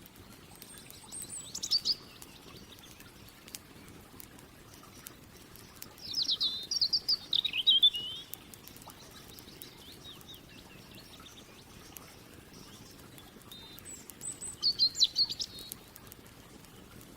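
A songbird singing three short, high chirping phrases several seconds apart, the middle one the longest, over faint scattered crackles of a campfire.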